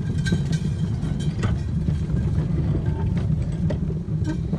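Railway speeder cart rolling along the track, its wheels giving a steady low rumble on the rails with scattered clicks and knocks.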